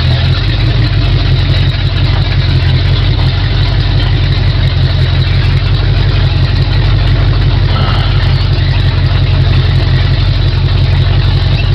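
Ford 351 Windsor V8 in a 1974 F100 pickup running steadily at low speed through open headers, loud and deep.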